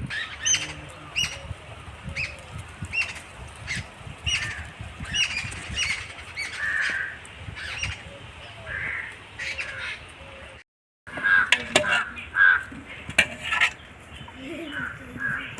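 Birds calling over and over in short calls a fraction of a second apart, with scattered sharp clicks and knocks mixed in. The sound drops out completely for a moment about eleven seconds in.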